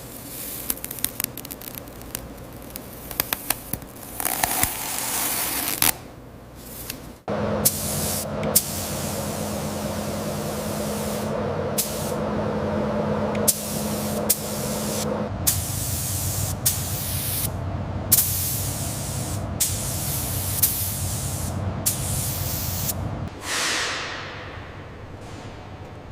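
Paint spray gun hissing in repeated spells broken by sudden cuts, with a steady low hum under much of it.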